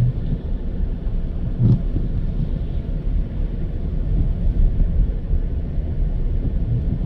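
Steady low rumble of a car driving: road and engine noise, with a brief low knock about two seconds in.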